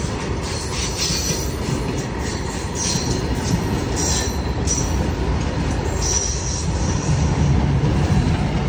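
Train running past with a steady rumble of wagons on the track, broken by short high squeals now and then, growing a little louder near the end.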